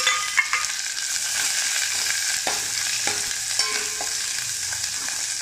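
Chopped onion and curry leaves sizzling steadily in hot sesame oil in a stainless steel pot while a steel spoon stirs them, with a few light knocks and scrapes of the spoon against the pot.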